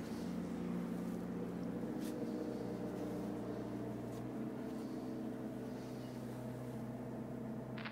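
A steady, low machine hum, like a motor running at a constant speed, with a couple of faint clicks.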